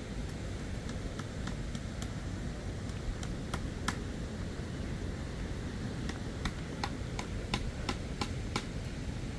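Steady low rush of the river water at the head of Tortum Waterfall, with a scattering of sharp light clicks: a few about three seconds in, then a quicker run near the end.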